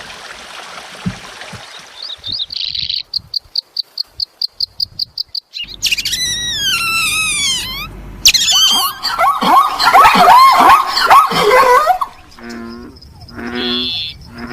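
A succession of different animal calls, mostly bird calls. A fast, high chirping trill comes first, then repeated falling whistled calls, then a loud burst of varied, tangled calls. Short, repeated lower-pitched calls follow near the end.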